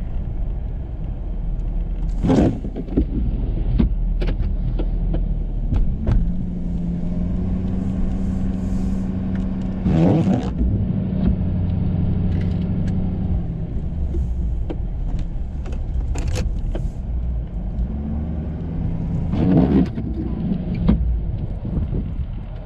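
Ford F350 pickup's engine running steadily while plowing snow, with scattered knocks and clicks and three short pitched sounds about 2, 10 and 20 seconds in.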